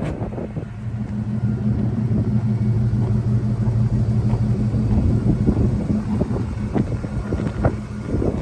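The 2003 Chevrolet Silverado 2500HD's supercharged big-block V8 running at a steady speed with a deep, even rumble.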